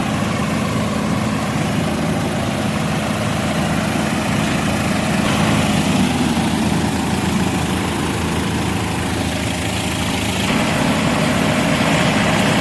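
Tractor diesel engine running steadily at low revs, a continuous low hum with a slight change in pitch about five seconds in.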